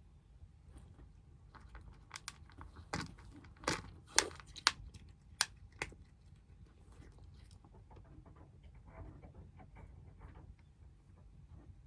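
Kittens eating, crunching their food, with a run of sharp clicks between about two and six seconds in, then softer, quicker crunching.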